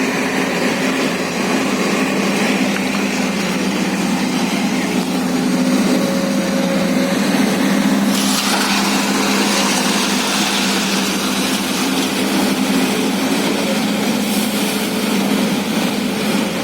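Excavator's diesel engine running steadily under load, with a rushing hiss joining about eight seconds in.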